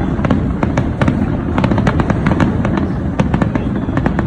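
Aerial fireworks display going off: a dense, irregular string of sharp cracks, several a second, over a continuous low rumble of bursting shells.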